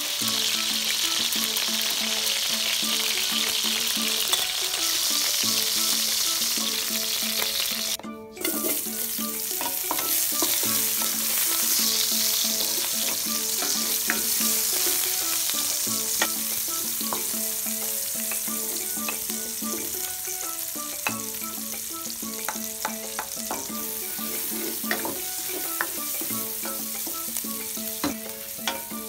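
Cooking oil sizzling in a stainless steel pot, first around frying chicken pieces and then around sliced onion, garlic and ginger being sautéed. Metal tongs and then a wooden spatula stir and scrape against the pan, making scattered clicks. The sizzle drops out briefly about a quarter of the way through.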